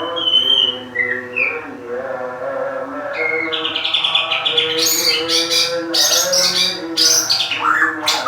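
A bird calling. It gives a held whistle near the start and short gliding notes, then a fast trill about three seconds in, followed by a run of loud, sharp chirps.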